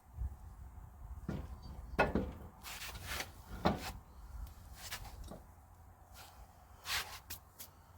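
Knocks and clunks of handling work on a truck wheel, about half a dozen spread over several seconds, over a steady low rumble.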